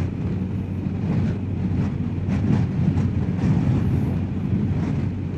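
Steady wind rush and low rumble from a BMW R1250GS Adventure's boxer-twin engine, heard on the bike's onboard microphone while riding at road speed.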